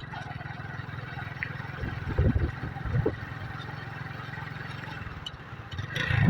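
Yamaha YBR motorcycle's single-cylinder engine running steadily on the move, with a steady rushing noise over it and a few low thumps, the loudest near the end.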